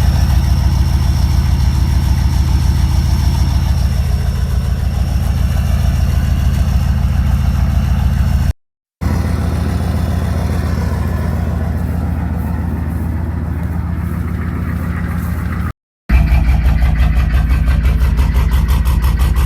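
A 1992 GM pickup's engine idling through its exhaust with a steady low pulsing rumble, in three takes split by two short cuts to silence.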